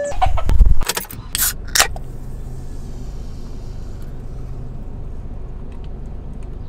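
Car engine idling, a steady low hum heard from inside the cabin. A few loud knocks and clicks come in the first two seconds.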